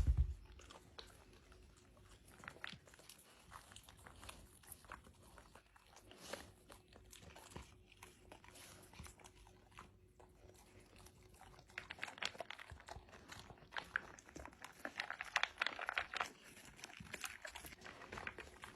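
A dog chewing and crunching, a faint run of small cracks and clicks that grows busier about twelve seconds in. A brief loud low thump comes right at the start.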